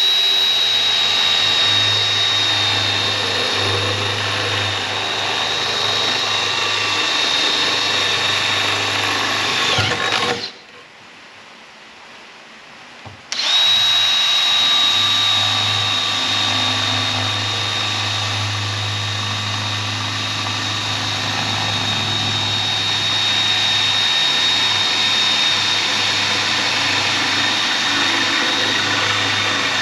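Power drill boring holes through sheet-metal floor panel for plug welds, running with a steady high whine. It stops about ten seconds in and starts again about three seconds later.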